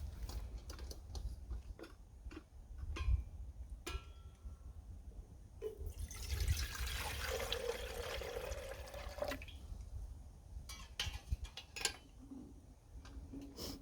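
Liquid poured into a vessel for about three seconds, a rushing pour whose pitch rises a little as it fills, then stops abruptly. Scattered light clicks and knocks around it, over a low wind rumble on the microphone.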